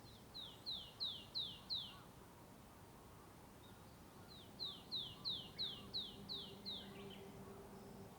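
A songbird singing two quick runs of clear, high, falling whistled notes, about three notes a second: five in the first, eight in the second. A low, steady hum of road traffic lies beneath.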